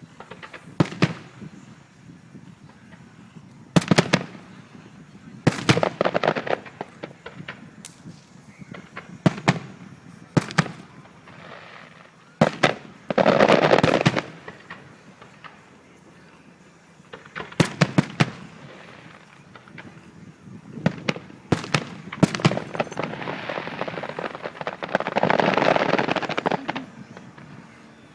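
Aerial fireworks going off: a string of sharp, loud bangs at irregular intervals, with two longer stretches of dense crackling, the first about halfway through and the second near the end.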